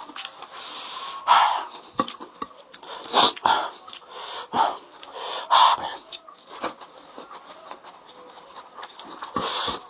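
A person breathing hard in sharp, hissing puffs through the mouth from the heat of spicy food, with short mouth clicks and smacks of eating in between.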